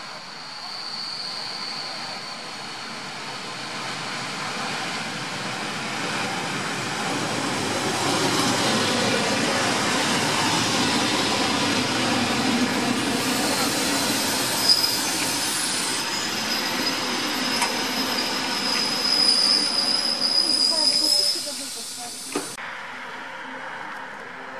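EN57 electric multiple unit rolling through the station, its running noise building over the first several seconds, with a steady high metallic squeal from the wheels in the second half. The sound cuts off suddenly about 22 seconds in, leaving quiet outdoor ambience.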